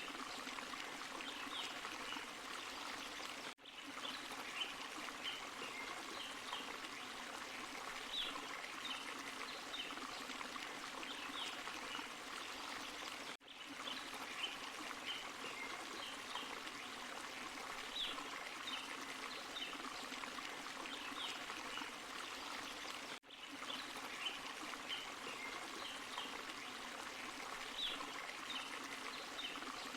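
Steady rush and trickle of a small forest waterfall and stream, with short bright splashy notes over it. The sound drops out sharply and briefly three times, about ten seconds apart.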